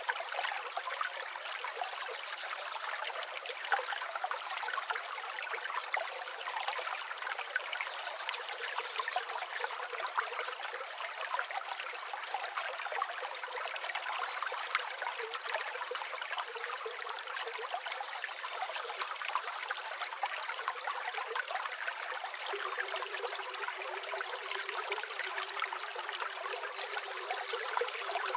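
River water flowing and babbling steadily over stones, an even splashing with no deep rumble.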